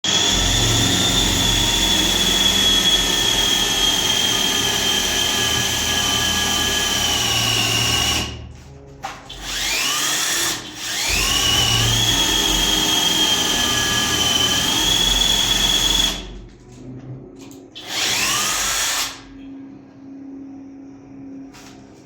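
Handheld electric power tool running at full speed with a steady high whine. It stops and is started again several times, each restart a quick rising spin-up, with a last short burst near the end before only a quieter low hum remains.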